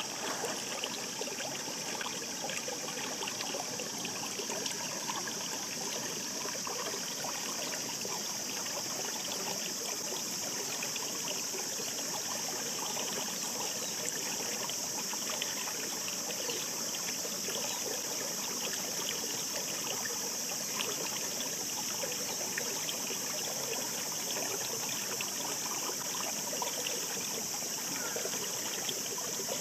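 Shallow mountain brook babbling steadily: a continuous rush of running water with many small splashes and trickles, strongest in its high hiss.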